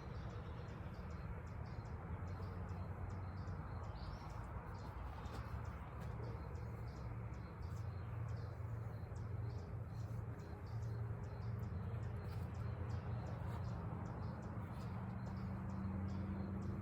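Rapid, regular high chirps, several a second, over a steady low hum.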